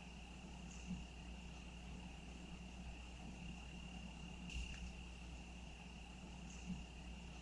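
Crickets trilling in one steady, unbroken high tone over a faint low hum, with three faint brief knocks.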